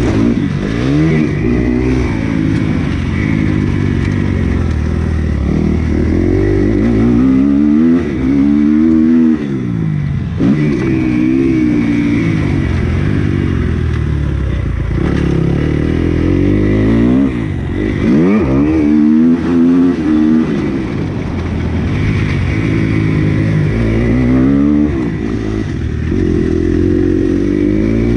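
Dirt bike engine being ridden hard, revving up and dropping off again and again as the throttle is opened and closed through the gears.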